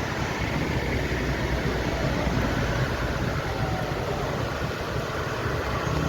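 Jet engines of a Boeing 737 airliner running steadily at idle: a constant low rumble under an even hiss.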